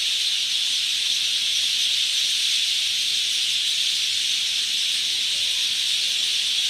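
Dense, steady high-pitched chorus of many small animals chirping at once, blended into one continuous hiss-like sound with no single call standing out.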